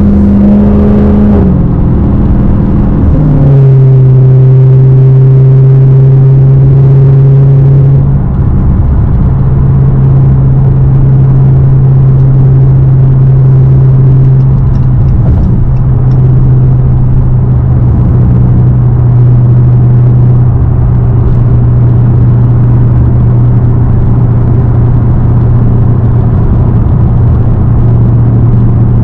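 Straight-piped Dodge Hellcat's supercharged 6.2-litre Hemi V8 exhaust, loud and steady while driving. The pitch drops about two to three seconds in, then settles into a low, even drone for the rest of the time.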